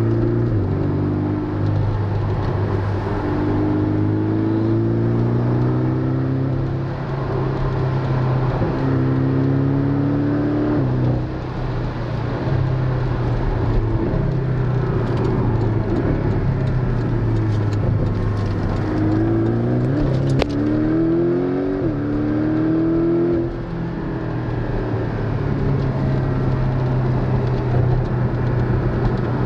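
Porsche 718 Cayman GTS turbocharged flat-four engine under way, its pitch rising through several pulls and dropping back between them, then holding fairly steady near the end.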